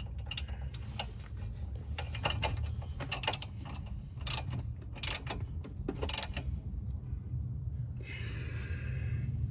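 Ratchet wrench clicking in short irregular runs as the castle nut on a new outer tie rod end is tightened with a 19 mm socket, with three sharper metal clicks in the middle. A steady low rumble runs underneath.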